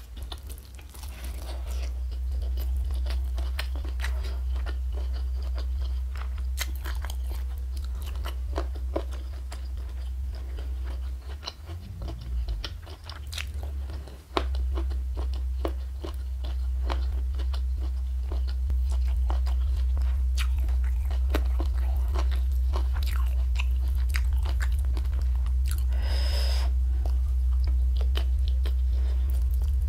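Close-miked eating sounds: crunching and chewing of crisp food in many short crackles, over a steady low hum.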